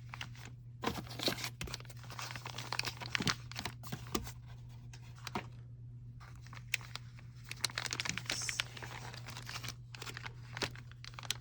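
Plastic packaging crinkling and tearing in irregular bursts, with small clicks and taps, as a boxed nail powder set is unpacked by hand, over a steady low hum.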